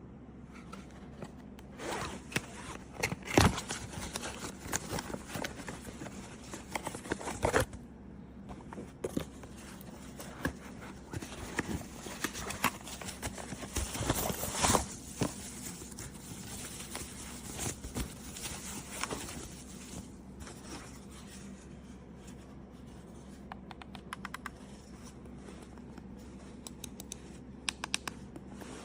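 Unboxing and handling of a wireless mouse: tearing, scraping and crinkling of its packaging, with irregular sharp clicks and knocks, busiest in the first half.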